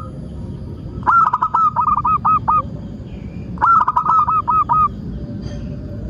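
Zebra dove (perkutut) cooing: two bouts of quick, rapidly repeated notes, the first about a second in and the second just before the four-second mark, over a steady low rumble.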